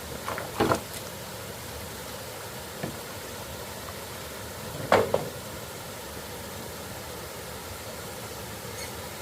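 A few short knocks or strikes over a steady hiss: a cluster in the first second, a faint one near three seconds in, and the loudest about five seconds in.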